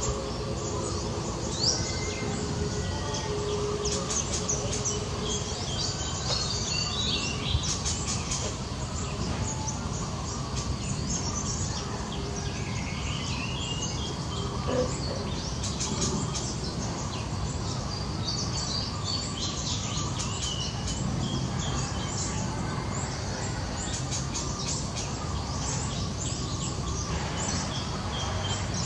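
Wild birds chirping, many short high calls scattered throughout, over a steady low background noise.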